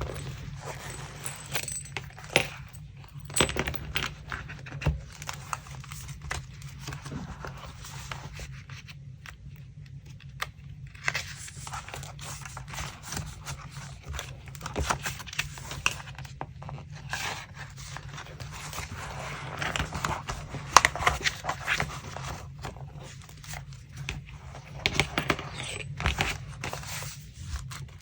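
Paper and scrapbooking materials being handled for a collage: rustling, crinkling and tearing paper with many small taps and clicks, busier in the second half, over a steady low hum.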